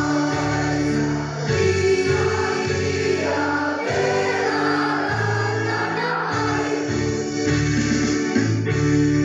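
A junior high school choir singing, long held chords that change every second or two.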